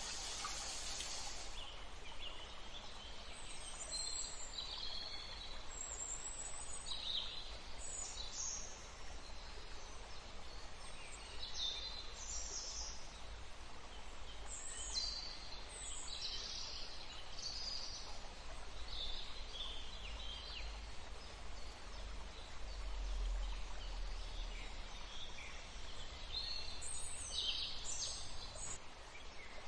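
Wild birds calling: many short, high-pitched chirps and call notes come irregularly, one after another, over a steady background hiss.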